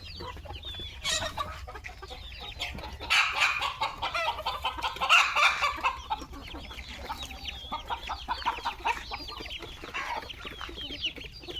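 A flock of chickens clucking and calling over one another, busiest and loudest a few seconds in.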